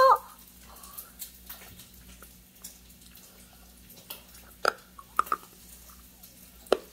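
A child chewing a chewable multivitamin tablet: small wet mouth clicks and crunches, with a few sharper ones a little past halfway and near the end.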